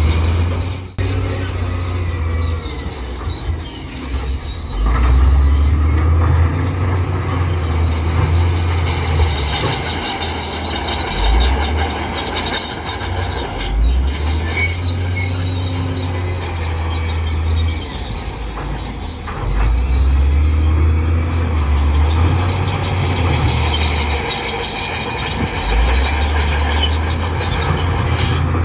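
Crawler bulldozer at work, its steel tracks squealing and clanking. Under that, its diesel engine rumbles, swelling and easing every few seconds as the load changes.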